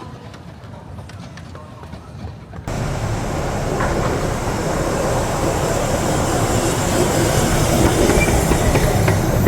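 Narrow-gauge steam train running by, its wheels rattling on the rails; the sound jumps abruptly louder a little under three seconds in and stays loud.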